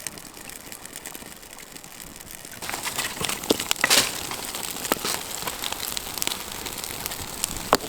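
Thin, wet kindling in a campfire catching and crackling, a run of small snaps and pops over a soft rush that grows louder about two and a half seconds in, with one sharper pop near the middle.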